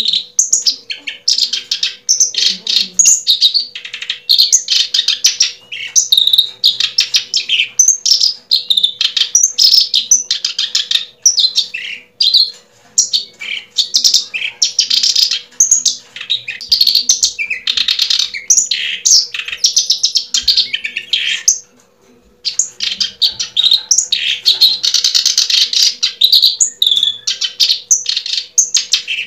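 Birds chirping and twittering rapidly and almost without pause, close and loud, with one brief break a little past two-thirds of the way through. A faint steady hum lies underneath.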